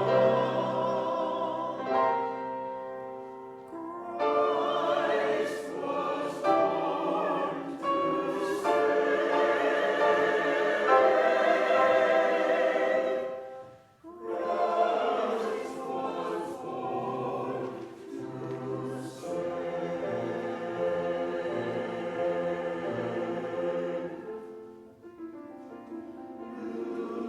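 A church chancel choir singing a choral piece in parts, with a short pause about halfway through.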